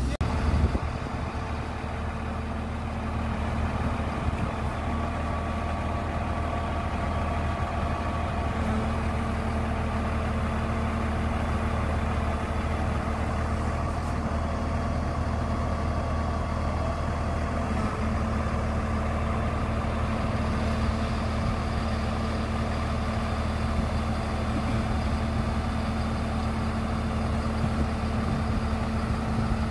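Crane's diesel engine running steadily, with a low hum and a faint whine that shifts in pitch about nine seconds in and again near eighteen seconds.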